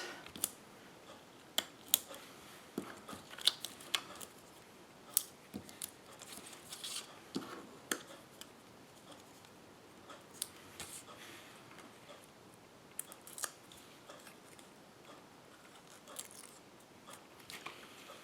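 Hands working with small pieces of paper card: scattered light clicks and short rustles at irregular intervals.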